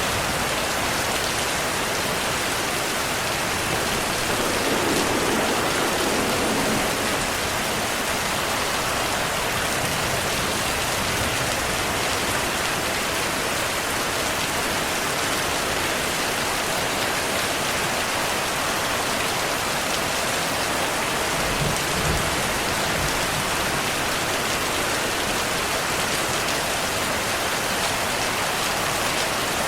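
Steady, dense rainfall hissing without a break, with a short low rumble of distant thunder about three quarters of the way through.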